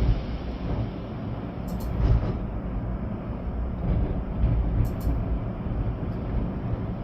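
Storm wind gusting through trees with rain, a deep rumbling noise that swells and eases gust by gust. A few faint high ticks sound over it.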